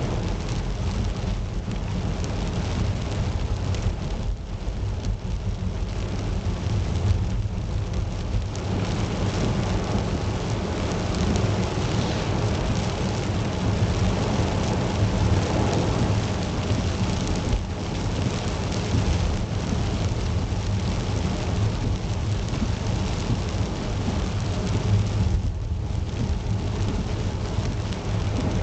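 Steady rain, dense and continuous, with a deep rumble underneath.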